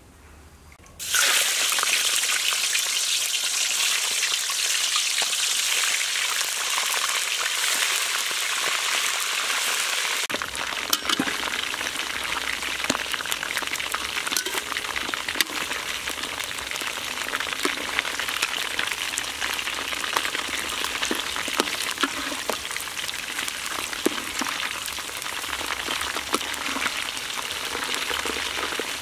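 Whole frogs deep-frying in hot oil in a wok, a loud steady sizzle that starts suddenly about a second in. From about ten seconds in, sharp crackles and pops of spattering oil sound over the sizzle.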